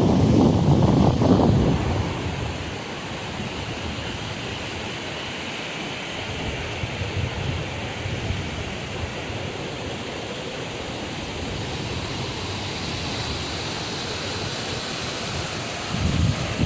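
Waterfall water rushing steadily, with wind buffeting the microphone for the first two seconds and again near the end.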